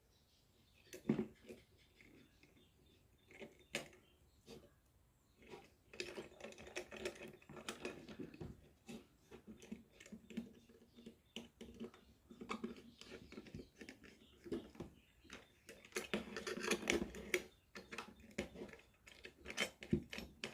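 Wires being connected to the terminals of a switch-and-socket electrical board: irregular small clicks, taps and rustling of handled parts, sparse at first and busier after a few seconds.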